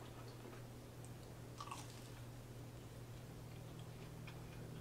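Faint close-miked chewing of a fried apple pie popper, soft mouth sounds with a few small clicks over a low steady hum.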